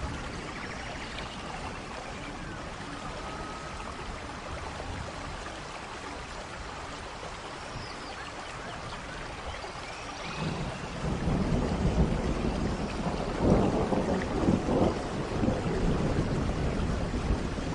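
Steady tropical rain with a few short bird chirps in the first half. About ten seconds in, a low rolling rumble of thunder builds up and carries on, louder than the rain.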